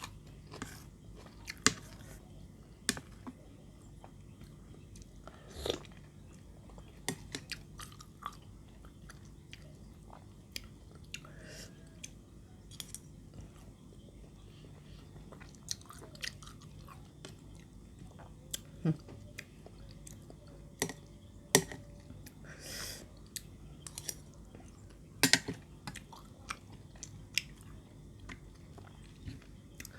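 A person chewing and biting crunchy santol salad with cabbage: irregular crunches and mouth clicks over a steady low hum.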